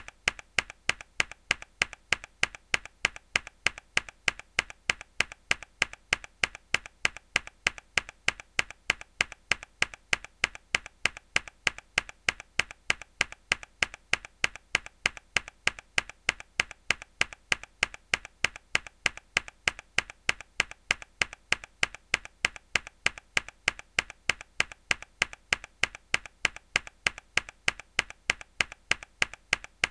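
A hard key press on a mechanical keyboard, the same sharp click repeated at an even rhythm of about two to three a second.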